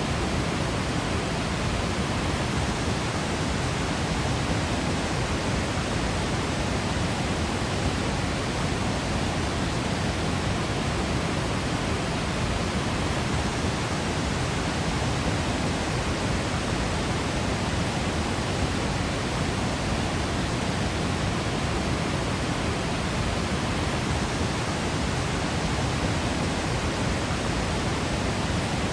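Waterfall in Yosemite: a steady, unbroken rush of falling water, heavy and deep, with no change in level.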